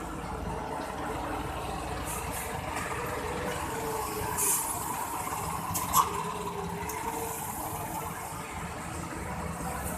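Heavy UD truck rolling slowly downhill with its engine running low and steady. There is a short hiss of the air brakes about four and a half seconds in, and a sharp click about six seconds in.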